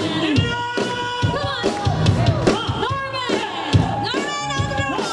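Live pop band playing with drums keeping a steady beat and a bending melody line over it, in a large room.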